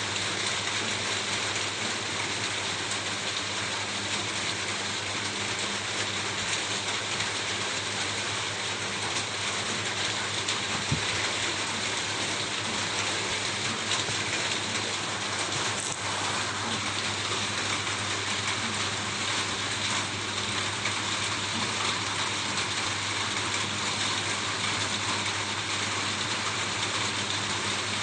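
Steady rain falling on a roof, an even hiss with a few scattered drop ticks. A low, steady hum runs underneath.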